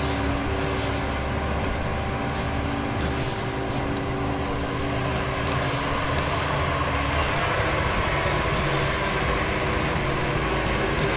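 Maxxi Bimo combine harvester running steadily, a constant mechanical drone with a few held tones.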